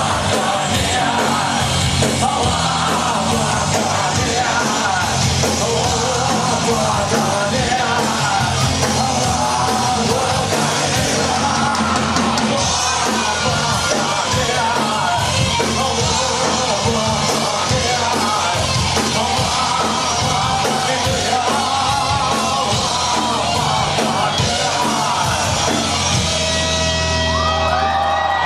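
Live punk rock played loud with distorted electric guitars, bass and drums, with shouted voices over it. Near the end sustained guitar notes ring out as the song draws to a close.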